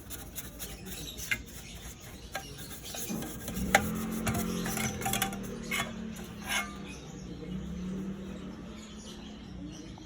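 Rubbing and scraping sounds with scattered sharp clicks, and a low steady hum from about three to nine seconds in.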